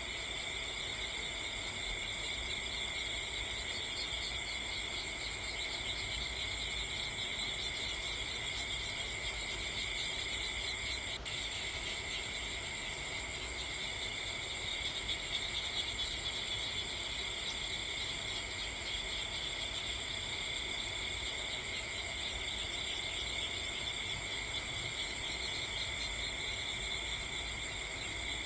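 Night insects trilling steadily in several overlapping high pitches, with one faint click about eleven seconds in.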